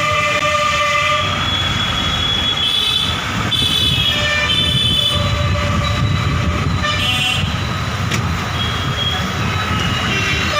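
Vehicle rumble on the road with horns sounding: one long held horn ends about a second in, followed by several short toots.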